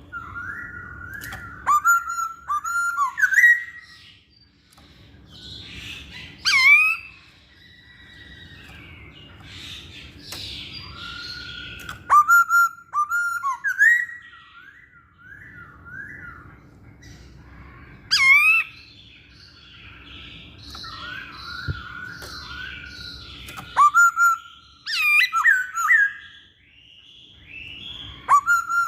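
Masked laughingthrush (poksay Hongkong) singing: bouts of loud whistled phrases with sharp sweeping notes, broken by short pauses.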